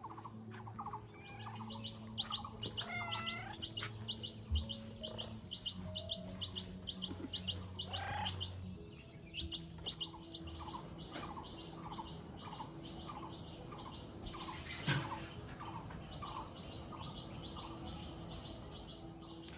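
Small birds chirping in long rapid runs of short, high, evenly repeated notes, about four a second, with lower calls between them. A low steady hum underlies the first half.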